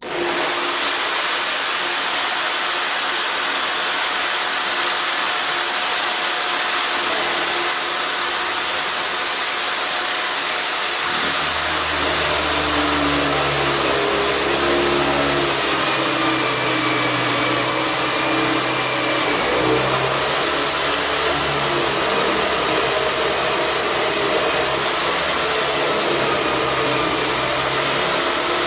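Electric hand drill clamped in a Wabeco drill stand, switching on suddenly and running steadily with a high motor whine while drilling a mounting hole through the workbench wood. A deeper rumble joins about twelve seconds in as the bit works under load.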